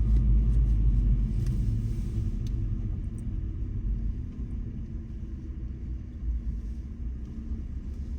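Low rumble of a car driving, road and engine noise, growing quieter over the first four seconds and then holding steady.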